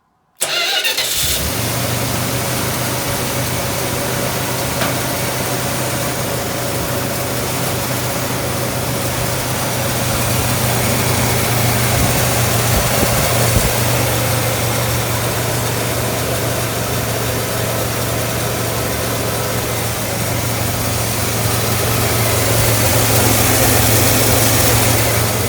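Carbureted car engine cold-started on the choke: it catches about half a second in and settles into a steady fast idle, swelling a little twice.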